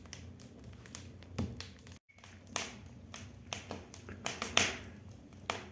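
Damp pine firewood burning in a fireplace firebox, crackling and popping irregularly as resin and moisture in the wood burst.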